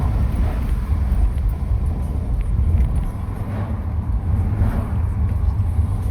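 Steady low rumble of a moving car, engine and road noise running on evenly.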